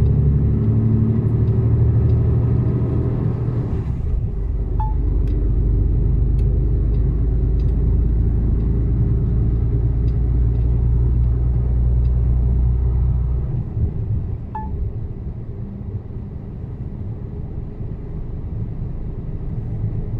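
Mercedes-Benz Actros truck's diesel engine heard from inside the cab, pulling with a steady low hum. About thirteen seconds in, the deep engine note drops away and it runs quieter.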